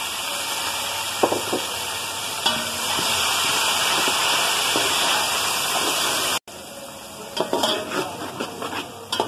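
Browned onions, ginger-garlic paste and garam masala sizzling loudly in hot oil in a steel pot, with a slotted steel spoon scraping and clinking against the pot as they are stirred. About six seconds in, the sizzle cuts off abruptly and comes back quieter, with the stirring clinks closer together.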